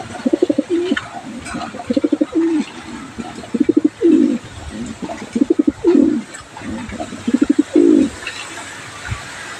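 Pigeon cooing: about five phrases, each a quick stuttering run of low notes ending in a longer falling coo, repeated every second and a half to two seconds.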